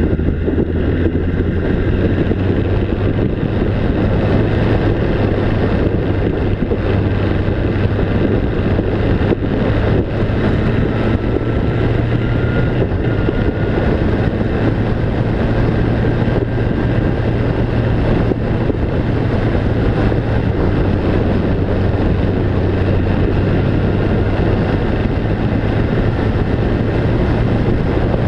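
Engine running steadily at constant speed, a low drone with rushing wind noise over it, as heard from a moving vehicle.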